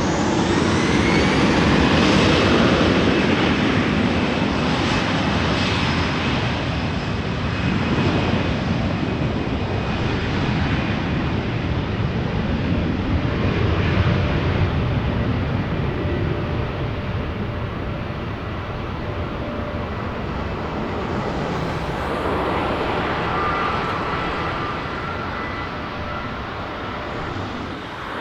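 Airliner's engines going by: a loud rushing roar with a faint steady whine over it, loudest a couple of seconds in and slowly fading away.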